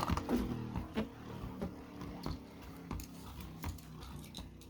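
Scattered light clicks and taps of plastic Beyblade tops and parts being handled.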